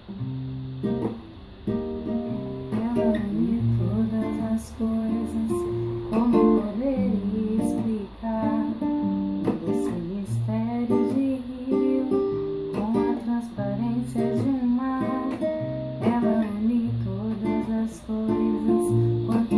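Acoustic guitar playing a song's instrumental introduction, a mix of plucked and strummed notes with a repeating bass line.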